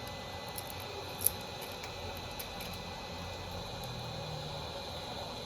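Steady room hum with a faint high whine and a few small clicks, the clearest about a second in.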